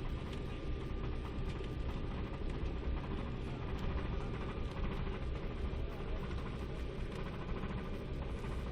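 Steady cabin noise inside an Embraer 195 airliner: the twin jet engines and airflow make an even low rumble with a faint steady whine on top.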